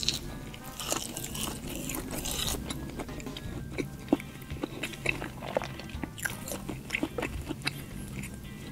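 Close-miked chewing of a mouthful of food, with many short, crisp crunches and wet mouth sounds. Soft background music plays underneath.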